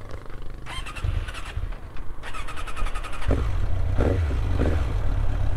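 Motorcycle engine starting about three seconds in, then running steadily at a low rumble.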